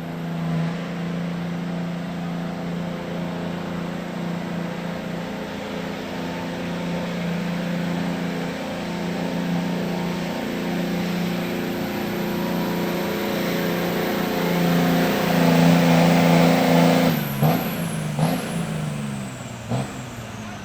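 Dodge diesel pickup's engine held at full throttle while pulling a weight-transfer sled: a steady engine drone with a faint high turbo whistle above it, growing louder until about sixteen seconds in. About seventeen seconds in the throttle is let off and the engine drops away, with a few sharp knocks.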